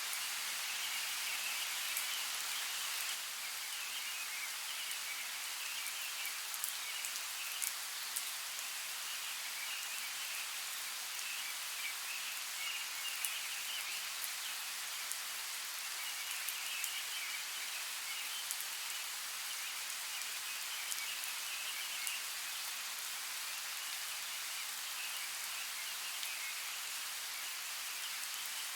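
Steady rush of running water with scattered drip-like ticks, and a high chirring chorus that swells and fades in patches.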